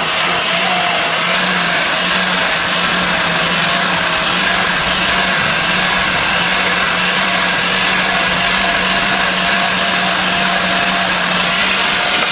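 Electric motor of a workshop machine running steadily at constant speed, with an even hum under a dense hiss.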